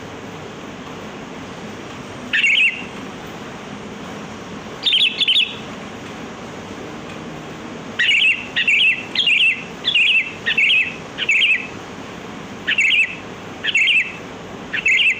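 Sooty-headed bulbul calling in short notes: a single call, a pair a few seconds later, then a quick series of about ten calls roughly every half-second, over a steady background hiss.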